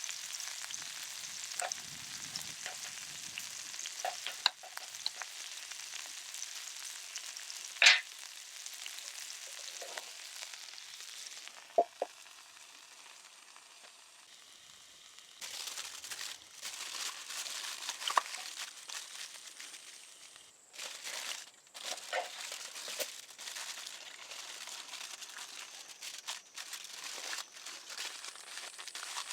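Food frying in a cast-iron skillet: a steady sizzling hiss with a few sharp knocks, as of a utensil against the pan. The sizzle drops away for a few seconds about halfway through, then comes back.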